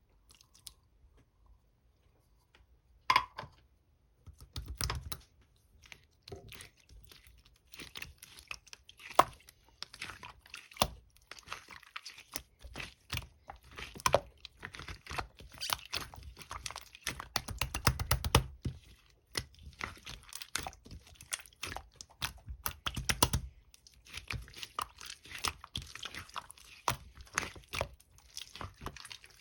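Close-up crackling and crinkling, as of something crinkly being handled and squeezed, in dense irregular clicks and crackles. Before it starts, about three seconds in, it is almost quiet, and a few low thumps come around five, eighteen and twenty-three seconds in.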